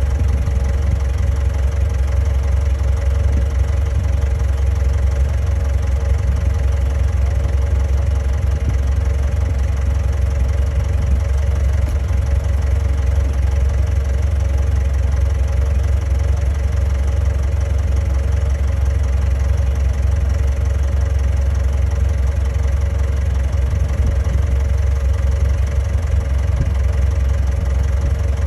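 Komatsu D31A bulldozer's diesel engine running at a steady idle, a constant low drone that does not rise or fall.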